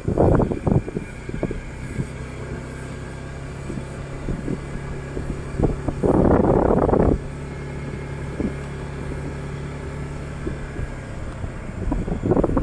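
Motorcycle engine running at a steady low speed, with loud bursts of wind noise on the microphone at the start and for about a second around six seconds in.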